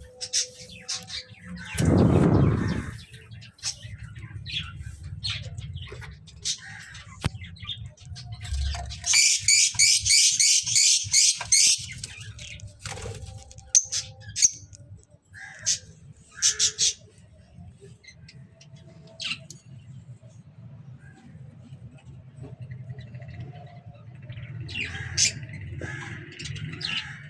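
Pet birds in a cage setup chirping and squawking, with scattered short calls and clicks and a burst of rapid high-pitched chirps about nine seconds in that lasts about three seconds. A louder, lower sound comes about two seconds in, over a steady low hum.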